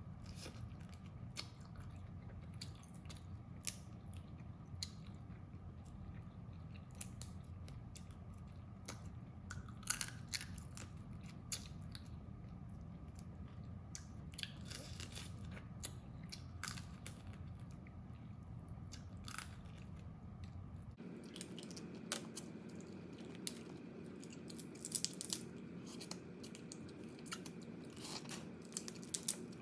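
Crab shells cracking and crunching between teeth while crab is gnawed and chewed close to the microphone: an irregular run of sharp crackles and clicks, with the loudest bites about ten seconds in and again near the end.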